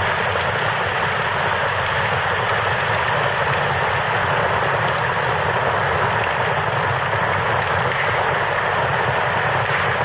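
Steady rush of a flowing river, with the faint crackle of a wood campfire over it.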